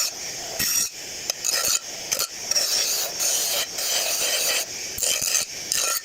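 Bench grinder deburring the freshly bandsaw-cut edge of stainless steel oval exhaust tubing: a gritty, hissing grind that starts and stops in a series of short passes, a few of them longer.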